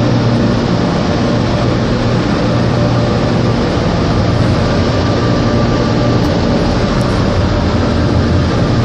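Automatic car wash machinery running, heard from inside the car's cabin: a steady, loud noise with a low hum.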